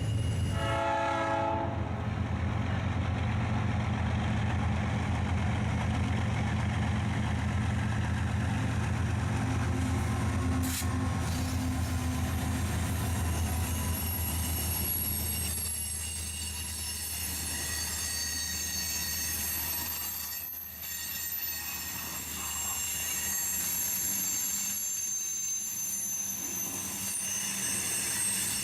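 Diesel freight train passing close by, its locomotive engines rumbling, with a short horn note about a second in. In the second half a steady high-pitched squeal from the wheels comes in over the noise of the rolling cars.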